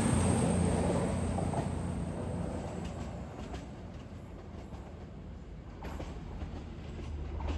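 CrossCountry Class 220 Voyager diesel multiple unit pulling out, its underfloor diesel engines running with a steady low drone that fades as the train moves away, with a few faint clicks of wheels over rail joints.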